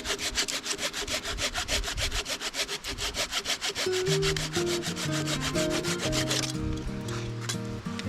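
A hand tool working wood with rapid back-and-forth rasping strokes, about six a second, as a log table is shaped. The strokes stop about six and a half seconds in.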